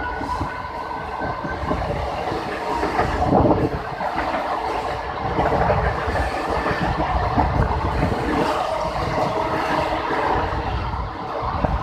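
Indian Railways passenger train running on the rails: a steady rumble of wheels and carriages, with clickety-clack from the track.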